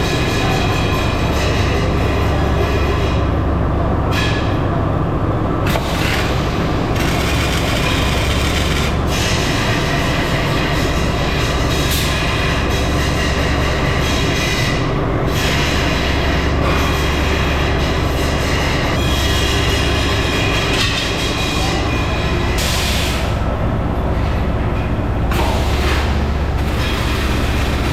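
Factory machinery in a motorcycle wheel rim works running steadily and loudly, with a constant low hum under a dense metallic clatter.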